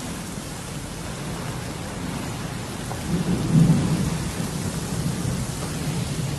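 Heavy rain falling steadily, with a low rumble of thunder that swells about three seconds in and then fades.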